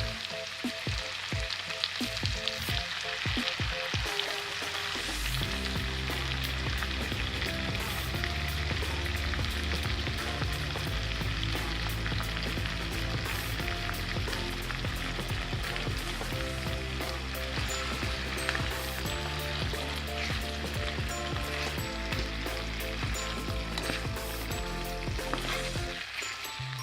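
Food frying in oil and butter in a pan, a steady sizzle, with a few clicks of a utensil in the first few seconds.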